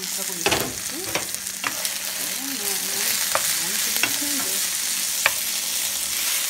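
Diced chicken sizzling and frying in a nonstick skillet, stirred with a wooden spoon that clicks and scrapes against the pan several times.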